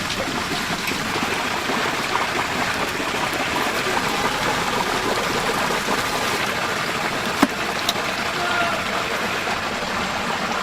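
Chicken deep-frying in a vat of hot oil: a steady, loud sizzle and bubbling. Two sharp metal clicks come a little past halfway.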